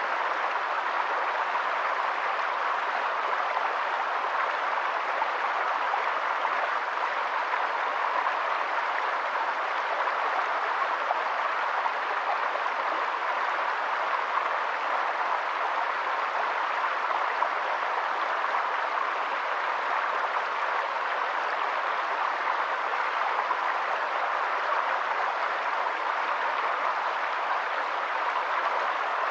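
Steady rushing of water, an even hiss that holds unchanged with no separate splashes or calls.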